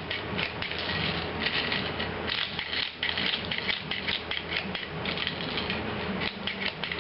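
Plastic airsoft BBs clicking and rattling as a speed loader pushes them into the Impact Tornado Grenade's shell: a dense, fast run of small clicks.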